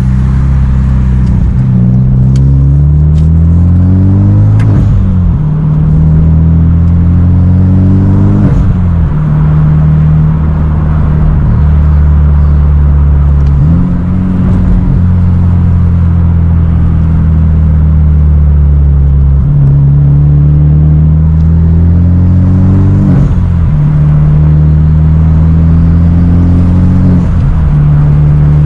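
Hyundai Genesis Coupe 2.0T turbocharged four-cylinder through a Tomei titanium single-exit exhaust, pulling under acceleration. Its note climbs in pitch and drops sharply at each gear change, about six times, with easier stretches between.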